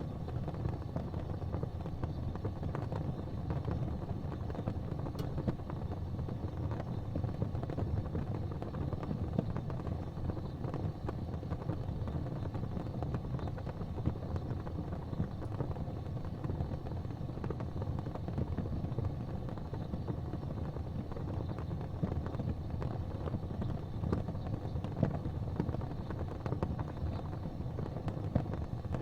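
Gas fireplace flames burning with a steady low rumble, faint crackling ticks scattered through it.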